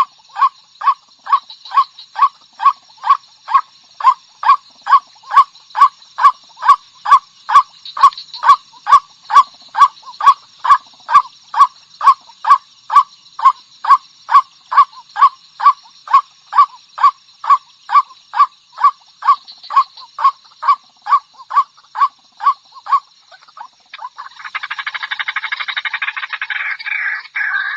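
Female white-breasted waterhen calling: one short note repeated about twice a second, steady and loud, for over twenty seconds. Near the end the calling turns into a denser, rapid chattering.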